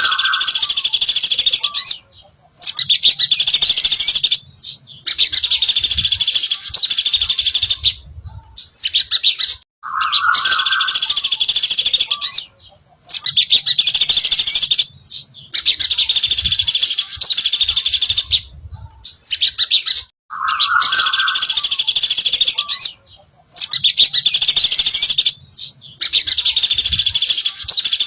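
A sogon dasi trotol songbird singing loud, rapid, high-pitched chirping phrases of two to three seconds each, about eight in a row with brief pauses between them. A short lower note opens a phrase at the start, about ten seconds in and about twenty seconds in.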